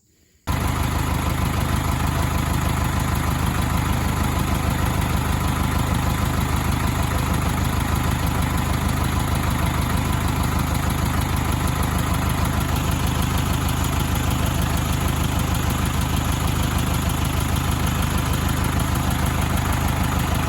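Engine idling steadily at an even speed, cutting in abruptly about half a second in.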